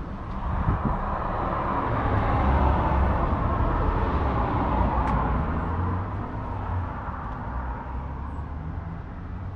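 New Holland T6.155's 4.5-litre four-cylinder diesel engine running with a low rumble, growing louder a second or two in and easing off again after about six seconds.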